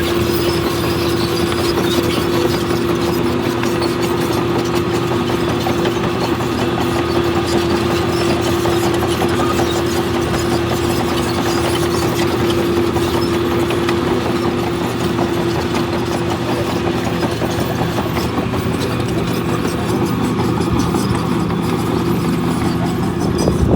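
Diesel engine of heavy earthmoving machinery running at a steady speed, a constant droning hum that holds its pitch throughout.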